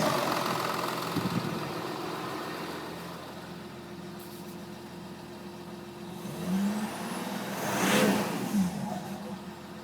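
Jaguar S-type's 2.7-litre twin-turbo V6 diesel being revved: it settles back to idle, then is revved twice near the end, the second rev rising highest with a turbo and wastegate rush at its peak before falling back to idle.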